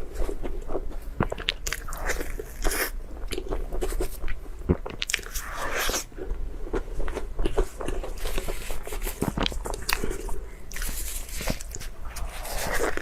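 A person eating, biting and chewing with crunching and many short sharp clicks, close to the microphone.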